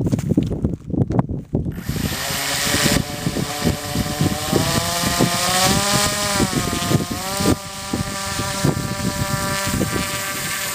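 Radio-control model airplane's motor and propeller starting up about two seconds in and running steadily with a pitched buzz, which rises a little in pitch midway and then holds. Irregular knocks and bumps come before it starts.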